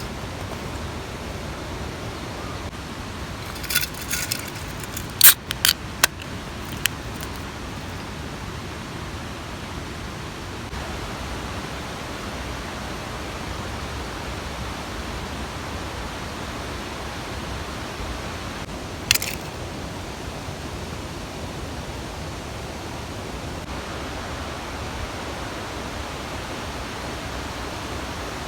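Steady rushing of a mountain stream. A cluster of sharp clicks and knocks comes a few seconds in, and a single one about two-thirds of the way through.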